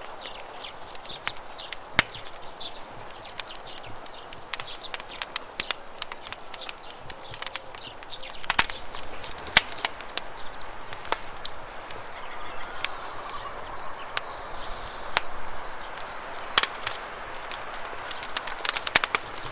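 Wood campfire crackling with sharp, irregular pops over a steady rush of flowing river water.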